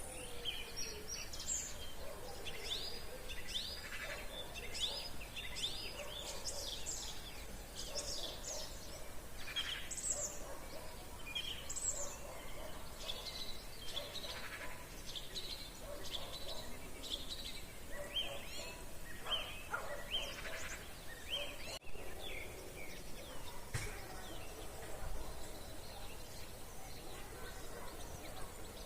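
Chorus of many songbirds singing in woodland: a dense overlap of short high chirps and trills from several birds at once, with fainter lower-pitched calls beneath. A brief dropout in the sound comes about two-thirds of the way through.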